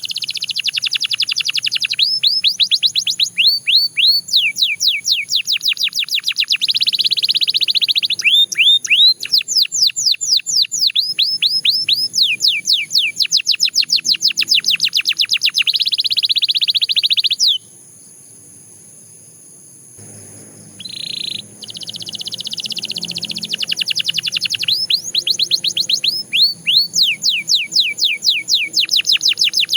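Canary singing: runs of fast, repeated whistled notes that sweep downward, alternating with buzzing trills. The song breaks off for about two seconds a little past halfway, then resumes.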